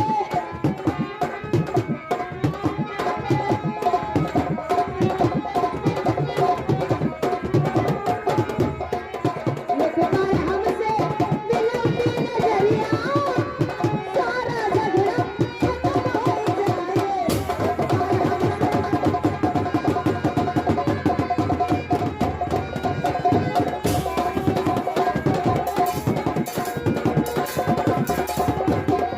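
Instrumental passage of Indian folk nautanki music: fast, dense hand-drum rhythm under a steady held melodic line, with a few bending melodic phrases in the middle.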